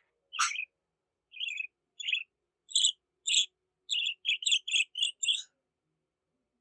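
Budgerigar chirping: about a dozen short, high chirps, spaced out at first and then coming in a quick run from about four seconds in, before stopping.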